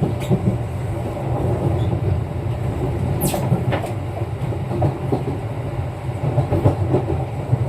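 Running sound heard inside a Kintetsu 9020 series electric train: a steady rumble of wheels on rail with scattered clicks of the wheels over rail joints, and one short sharp high-pitched sound about three seconds in.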